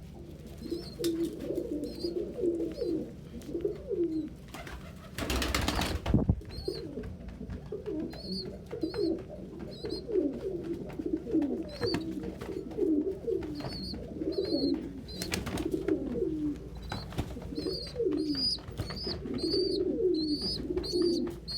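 Many pigeons cooing in an enclosed loft, with overlapping coos throughout and short high chirps repeating more often toward the end. A loud rustling burst about five seconds in.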